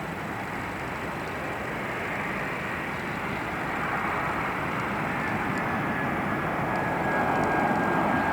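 Airliner engines growing steadily louder as the plane draws near, with a thin steady high whine coming in about halfway through.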